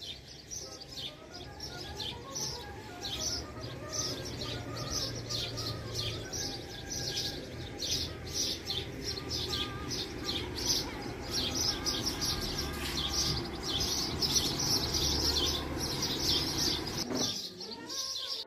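Small songbirds chirping over and over in quick, high, short calls, several at once, until the sound drops away about a second before the end.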